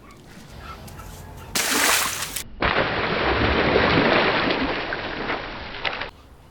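A water-filled stretchy toy bursting: a sudden loud splash of water about a second and a half in, then after a brief break a longer, duller gush of water splashing out that cuts off abruptly near the end.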